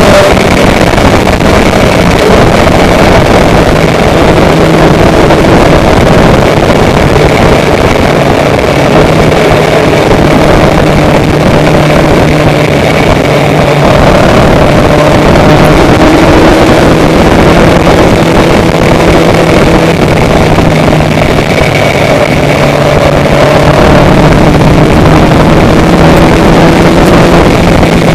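A vehicle travelling at steady speed: a loud, constant engine drone with a slowly drifting pitch, mixed with wind rush.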